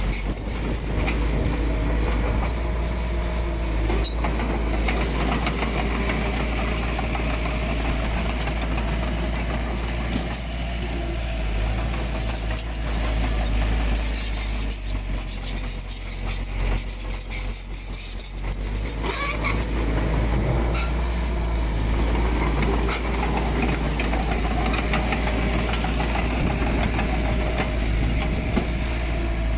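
Diesel engine of heavy earthmoving machinery running steadily, easing off for a few seconds around the middle, with scattered metallic clanks and clicks.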